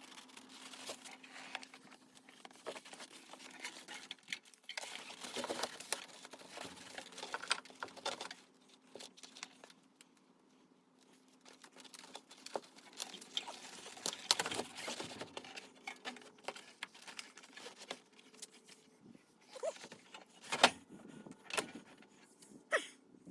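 Scattered light clicks, taps and rustling of hand work, over a faint steady hum; nearly quiet for a couple of seconds about ten seconds in.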